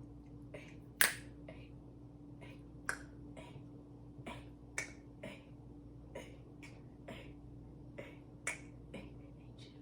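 Irregular sharp clicks, about two a second, the loudest about a second in, over a faint steady hum.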